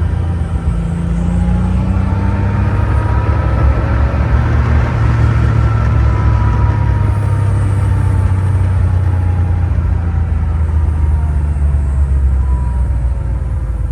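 1989 Porsche 911 Speedster's air-cooled 3.2-litre flat-six engine running under way, a steady low drone whose pitch climbs a little and then eases down through the second half.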